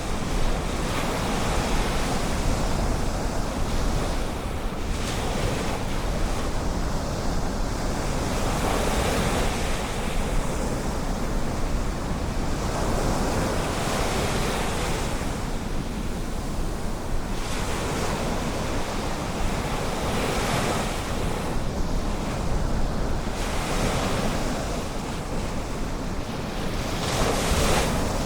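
Ocean waves breaking and washing ashore: a continuous rush that swells every few seconds, over a steady low rumble.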